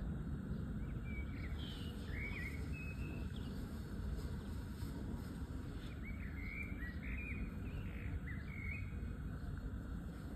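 Small birds chirping in two bouts of short, quickly gliding calls, one about a second in and another from about six seconds in, over a steady low rumble.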